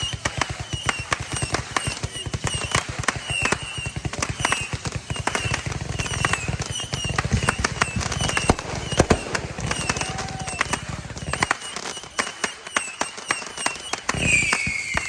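Fireworks: a dense run of rapid crackling pops like a string of firecrackers, thinning out about eleven seconds in, then a whistle falling in pitch near the end.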